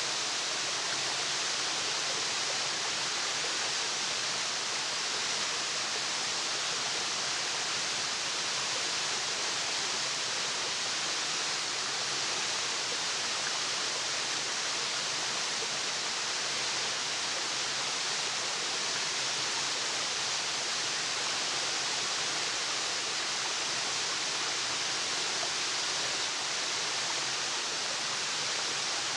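Waterfall running: a steady, unbroken rush of falling water, its hiss strongest in the high range, with no other sounds standing out.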